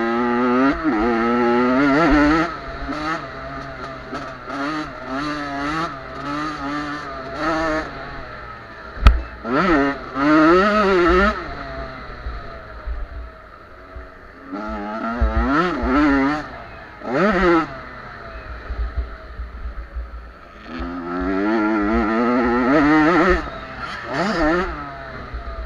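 Small two-stroke youth motocross bikes (50–85 cc class) revving hard and passing, engine pitch rising and falling with throttle and gear changes in four loud spells, quieter between. One sharp knock about nine seconds in.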